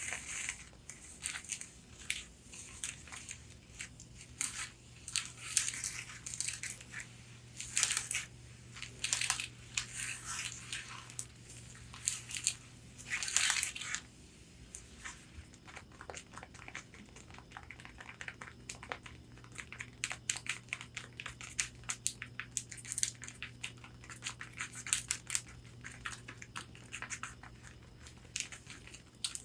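Long fingernails tapping and scratching on a corset bodice: scratching swipes mixed with taps for the first half, then mostly quick, light taps in irregular flurries.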